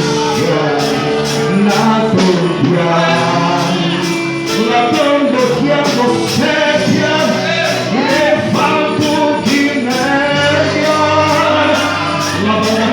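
Live gospel worship song: a man singing over a band, with held keyboard-like chords and high percussion strikes keeping a steady beat about twice a second.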